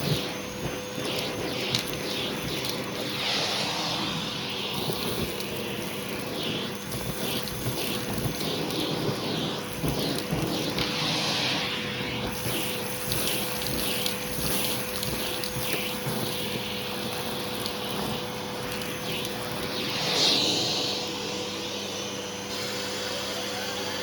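Hoover vacuum cleaner running with a steady motor whine while its hose tool is worked over a shag rug, the suction hiss swelling and fading as the tool is pushed and pulled, with one louder swell near the end.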